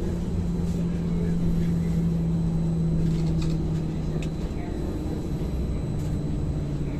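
Ankeng light rail tram running between stations: a steady low motor hum over the rumble of the ride, its pitch dropping slightly about four seconds in.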